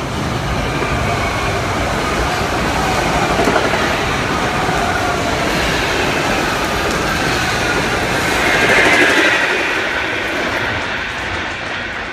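NJ Transit Arrow III electric multiple-unit commuter train passing close by, its wheels running over the rails. The sound builds, is loudest about three-quarters of the way through, then fades as the train moves away.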